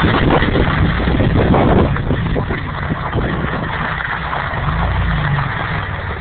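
Truck engine running as it drives, with a loud rumbling rattle for the first two seconds that eases to a steadier drone.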